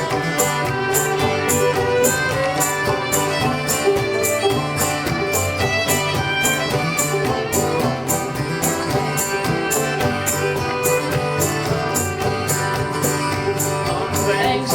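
Instrumental break in an old-time folk song: a fiddle plays the melody over accompaniment, with a steady high-pitched percussion beat of about three strokes a second.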